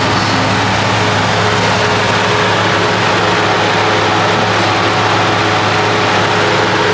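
Car engine idling steadily: a constant low drone under an even wash of noise, with no rise or fall.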